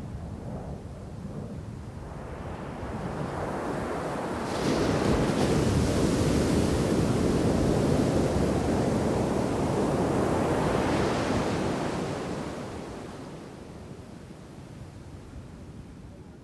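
A shore-break wave crashing onto the beach about four seconds in: a loud rush of surf that holds for several seconds, then fades as the water washes back. Wind buffets the microphone.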